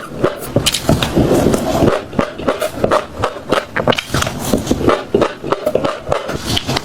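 Close-up chewing of crunchy seeds: a quick, irregular run of crisp crackles and crunches as the seeds break between the teeth.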